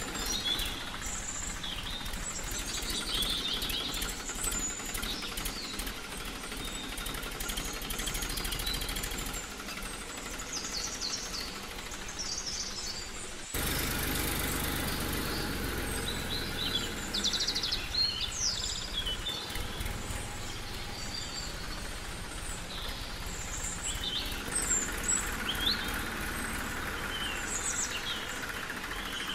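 Small birds chirping and calling repeatedly over a steady background hiss, which changes abruptly about halfway through.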